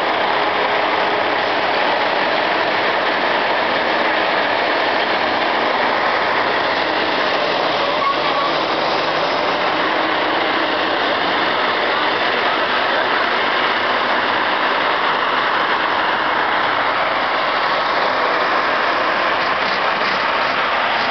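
Heavy vehicle engines running steadily, a constant loud noise that stays even throughout.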